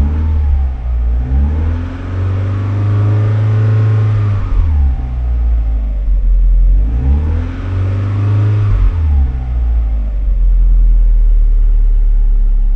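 Vauxhall C20XE 2.0-litre 16-valve four-cylinder engine revved twice with blips of the throttle. Each time the revs rise and fall back over a few seconds, and the engine then settles to idle at about 1,080 rpm. The engine was only just started and is still cold, at about 25 °C.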